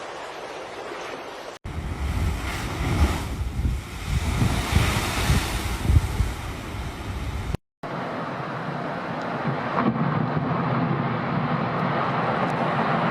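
Steady wind and rushing-water noise, with heavy wind buffeting the microphone in the middle stretch. The sound breaks off abruptly twice, about a second and a half in and near eight seconds in, as the scene changes.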